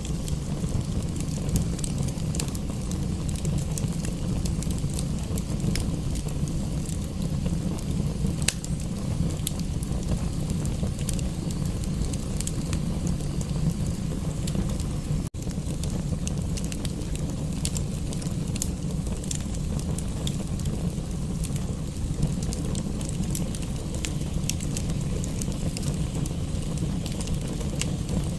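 Wood fire in a fireplace crackling, with scattered sharp pops over a steady low rumble. The sound drops out for an instant about halfway through.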